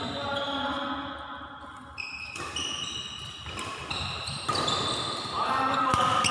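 Badminton rally in an echoing hall: several sharp racket hits on the shuttlecock and short high squeaks of shoes on the court floor, with voices in the background.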